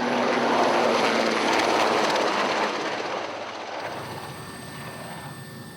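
Helicopter flying past: a rushing rotor and engine noise that swells over the first two seconds, then slowly fades away.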